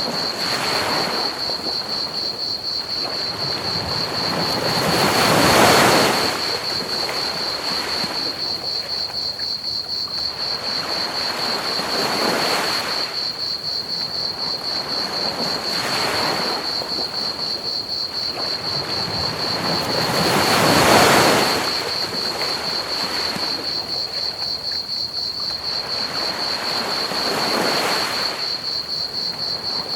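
Ocean waves washing onto a beach in slow swells, the two largest breaking about five and about twenty-one seconds in, over a steady, high, pulsing chorus of crickets and a constant hiss of pink noise.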